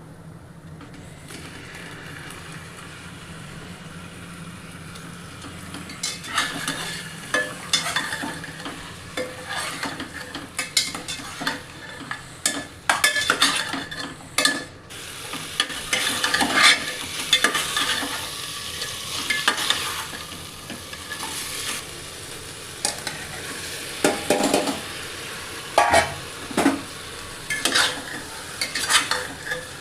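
Food sizzling as it fries in a pot. From about six seconds in, a spoon scrapes and knocks against the pot again and again as the food is stirred.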